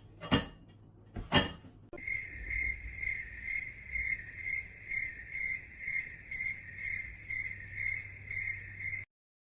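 Two sharp clicks, then steady cricket chirping, about two chirps a second, that stops abruptly near the end.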